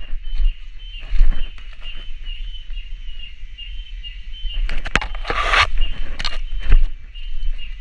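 Footsteps and brushing through forest undergrowth, with scattered crackles and a loud rustle of leaves and branches about five seconds in, over a steady high-pitched cicada drone.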